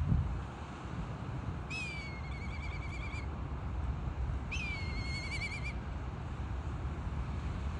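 A bird calling twice, each call a short downward slide into a wavering, warbling whistle lasting just over a second, over a steady low background rumble.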